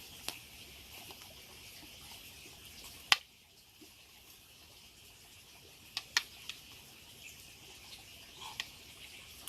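A few scattered sharp clicks and taps, the loudest about three seconds in and a quick pair near six seconds, over a steady high hiss of background ambience.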